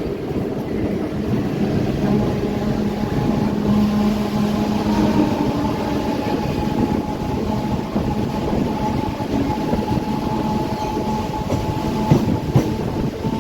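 Mumbai suburban local train (electric multiple unit) running on the rails: a steady heavy rumble with a constant whine. Two sharp clacks come near the end.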